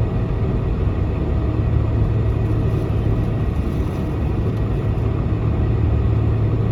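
Boeing 747-400 jet engines at taxi power, heard inside the passenger cabin as a steady low rumble with a constant hum.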